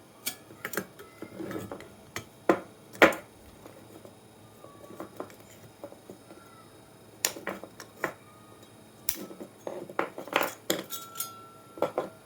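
Irregular metallic clinks and knocks of tools and small metal parts being handled on a work surface, loudest a little after three seconds in.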